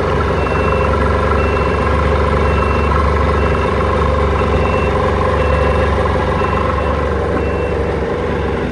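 Yamaha 1100 jet ski engine running steadily with a misfire, which the mechanic traces to an injector that is not firing. A short high beep repeats about once a second over the engine.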